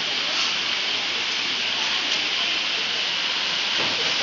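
A steady, even hiss with no rhythm.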